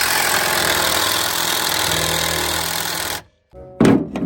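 A loud, steady machine noise that starts and stops abruptly after about three seconds. Music begins near the end.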